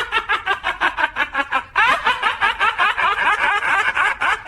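Hearty laughter: a fast run of short 'ha-ha' pulses that breaks off and starts again about two seconds in.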